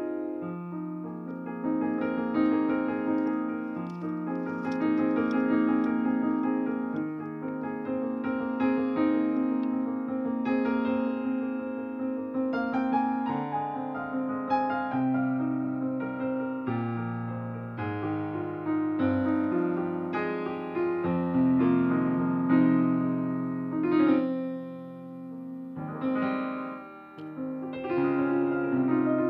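Solo piano music: slow, sustained notes and chords.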